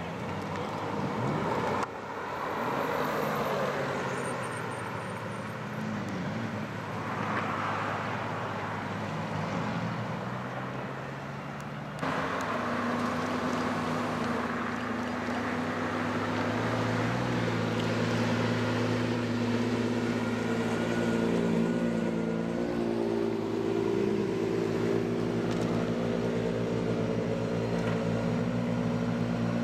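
Exotic sports car engines: cars moving with a shifting engine note, broken by abrupt cuts about two and twelve seconds in. From about twelve seconds in, one engine runs steadily at low revs.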